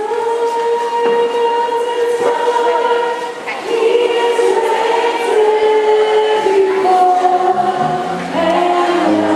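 Choir singing a slow hymn in long held notes that change every second or two. A lower part joins near the end.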